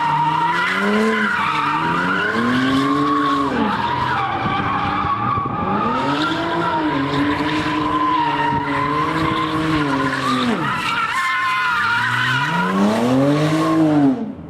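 A drifting car's engine revving up and falling back several times, over a steady, high tyre squeal.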